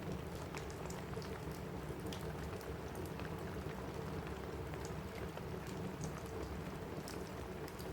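Steady rain falling on a cabin roof, with many small sharp crackles and pops scattered through it from a wood fire in a fireplace.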